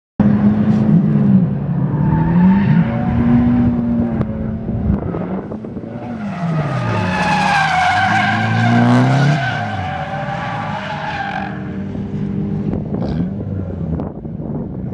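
Drift car's engine revving, its pitch rising and falling again and again. About seven seconds in, the tyres break into a long, wavering squeal that lasts about four seconds as the car slides sideways.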